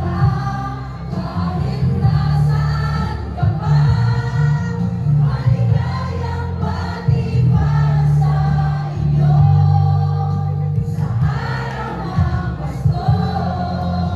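A choir singing over music with a strong, steady bass.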